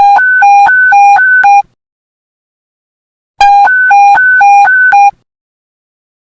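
Police panic-button alert tone: electronic beeps alternating between a low and a high pitch, about four tones a second. Two bursts of about a second and a half each, the second starting about three and a half seconds in.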